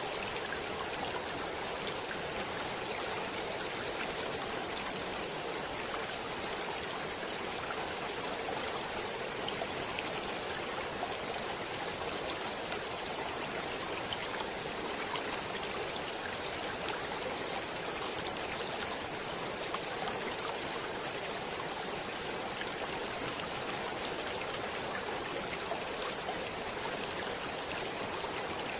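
Stream water flowing over rocks: a steady rushing and burbling with small splashes, unchanging throughout.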